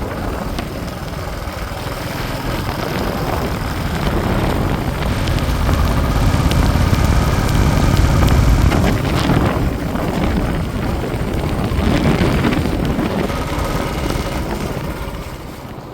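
Rushing wind and road noise on the move aboard a Royal Enfield motorcycle, heaviest in the low end; it swells to its loudest about halfway through and eases off near the end.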